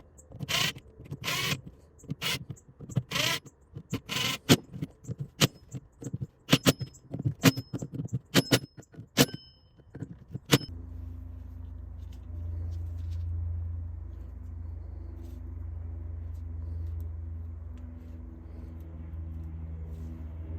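Irregular sharp metallic clinks and knocks of tools and parts being handled, some with a brief ringing tone, for about ten seconds. Then they stop and a steady low hum takes over.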